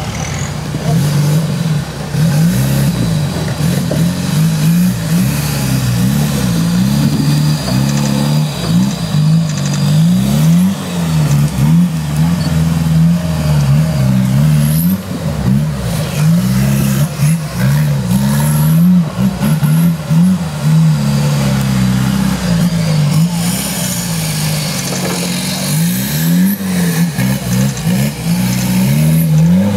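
Suzuki Samurai off-road trial vehicle's engine revving up and down over and over, about one rise and fall every second or two, as the driver works the throttle to climb a steep dirt slope.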